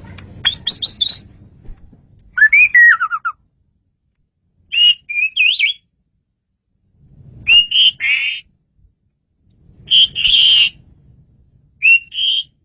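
Male Asian pied starling (jalak suren) singing: loud, clear whistled phrases, each under a second long, about six of them with short pauses between. One phrase near the start slides down in pitch, and the others warble up and down.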